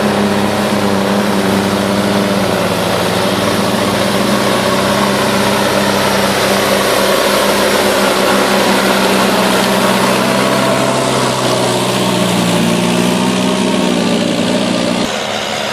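John Deere 2020 tractor engine running steadily. About fifteen seconds in, its tone changes abruptly and it gets a little quieter.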